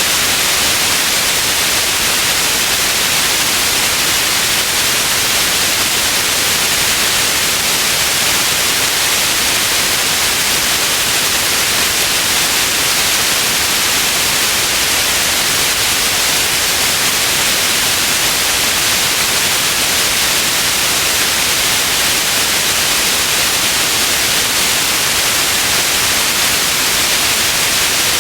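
Steady, unchanging white noise: an even hiss weighted toward the high end, with no tones or events.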